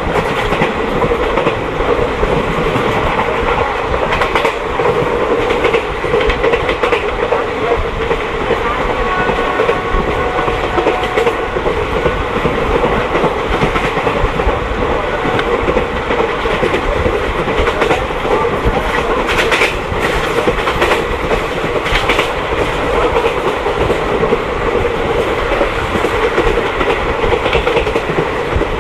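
Passenger train running along the track: a steady rumble with wheels clattering over the rail joints, and a few sharper clanks about two-thirds of the way through.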